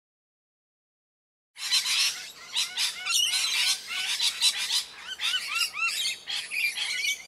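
Bird calls starting about a second and a half in: a dense run of squawks and chirps, with a string of quick rising notes near the end.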